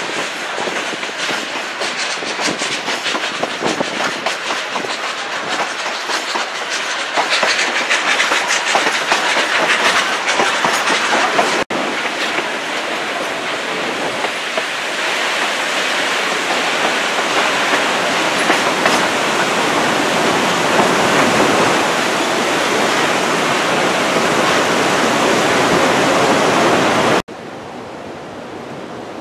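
Narrow-gauge passenger train rolling along, its wheels clicking over the rail joints, heard from an open-sided car. The rolling noise is steady and dense, drops away abruptly near the end, and is quieter after that.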